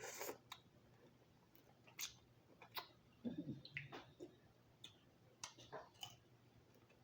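Close-miked chewing and wet mouth smacks while eating lobster leg meat, with scattered small clicks.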